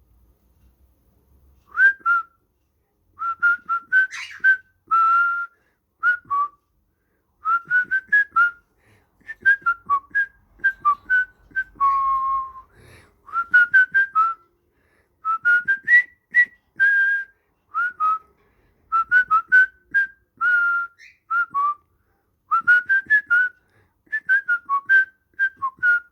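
Whistling in quick phrases of short notes, many sliding up or down in pitch, repeated with brief pauses between phrases.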